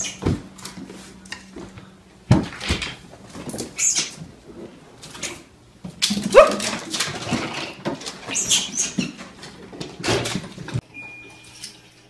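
Small dog barking in about five short bouts with pauses between, stopping abruptly near the end.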